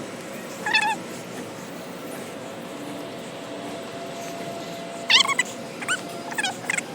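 Short, high whining animal calls: one about a second in, then a quick run of four near the end.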